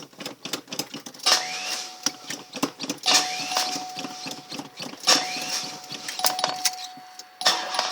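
A 1989 Cadillac Eldorado's starter cranks the engine in repeated bursts about every two seconds, each with rapid clicking, while it tries to start after sitting unused for five years. A steady high warning-chime tone sounds behind the cranking.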